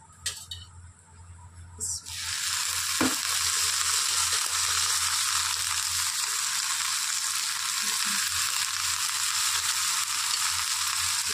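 Chopped okra frying in a metal kadai: a sizzle starts suddenly about two seconds in, as spoonfuls of oil hit the hot pan, then runs on steadily.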